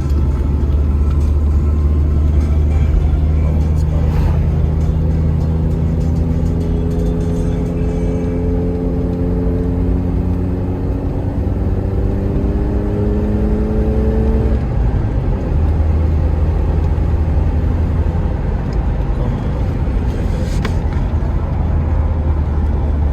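A car driving with a steady low road and engine rumble. The engine's pitch rises slowly as it accelerates through the middle, then drops back about two-thirds of the way through.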